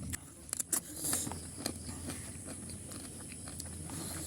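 Close-up chewing of pork curry, with many short, irregular wet clicks.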